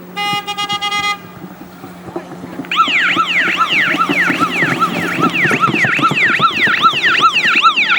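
A short stuttering horn blast, then about two seconds later a police car's siren starts and warbles up and down quickly, about twice a second, over a steady engine hum.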